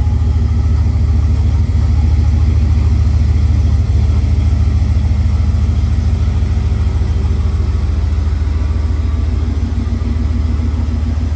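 Truck engine running steadily, a loud low drone with a fine, fast pulse in it.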